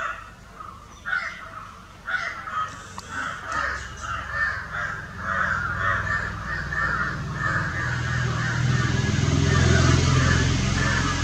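Repeated bird calls: spaced at first, then a fast unbroken run of calls from about four seconds in, with a low rumble building underneath and loudest near the end.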